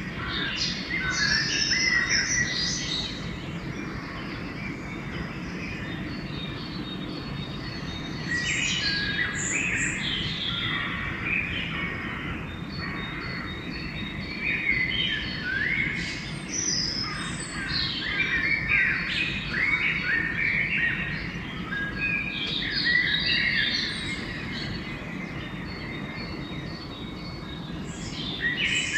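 Pre-dawn chorus of several songbirds singing over one another, with many overlapping chirps, whistles and trills. It is thinner around five seconds in and again near the end, and busiest in the middle. A steady low background rumble runs underneath.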